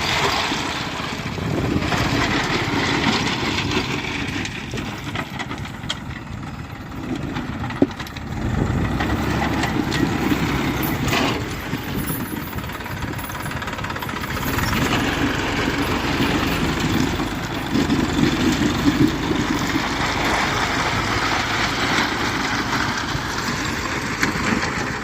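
Massey Ferguson 1035 tractor's diesel engine running, its level easing off briefly about a third of the way in and then picking up again.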